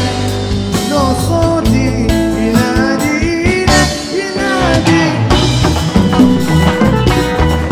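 Live Arabic band music in an instrumental passage between sung lines: a melody that slides between notes over a steady bass and drums.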